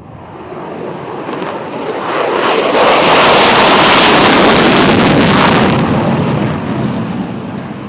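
F-16 Fighting Falcon fighter jet taking off and passing by. Its engine roar builds over about three seconds, stays loud for a couple of seconds, then fades away.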